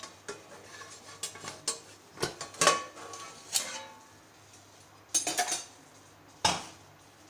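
Metal cookware clattering: a plate lid is lifted off a kadai and handled, giving a series of separate metal clanks and knocks, the last loud one ringing briefly.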